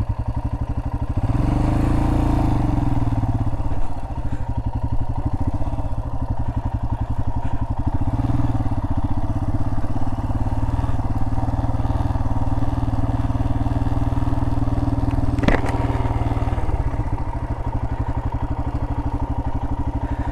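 Royal Enfield Himalayan 411's single-cylinder engine running steadily at low revs, its firing pulses even. It picks up briefly about a second in and again from about eight seconds in, easing off a few seconds before the end; a single sharp click comes near the end of that stretch.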